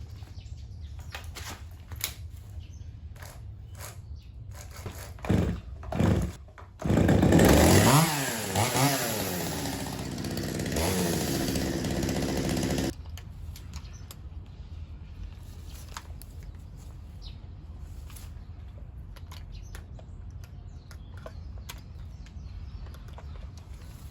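Chainsaw: two short loud bursts about five and six seconds in, then it runs loud for about six seconds with its pitch dropping and rising as it revs, and cuts off suddenly. Light knocks and clicks come before and after.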